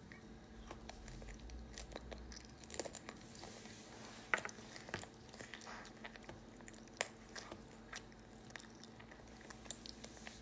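Faint sounds of a person eating: chewing, with scattered short sharp clicks.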